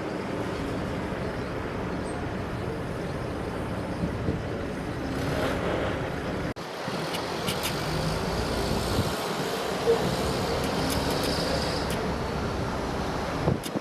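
Steady low rumble of a cruise ship under way leaving port, with wind buffeting the microphone on deck. The sound breaks off for an instant about halfway through and then carries on.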